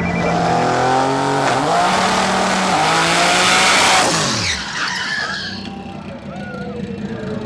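Drag race car launching and accelerating hard down the strip, its engine note climbing in steps through the gear changes. It grows louder until about four seconds in, then the pitch drops sharply and the sound falls away as the car passes and goes off into the distance.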